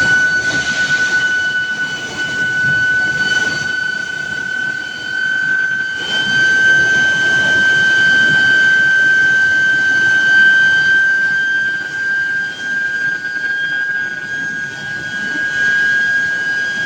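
Steel billet induction heating furnace running, its medium-frequency power supply and coil giving off a steady high-pitched whine with overtones that drifts slowly upward in pitch, over the general noise of a forge shop.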